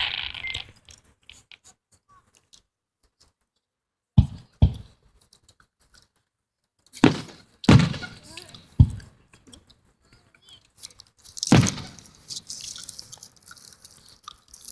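Fireworks shells bursting: a string of sharp bangs at irregular intervals, each trailing off briefly, with quiet gaps between.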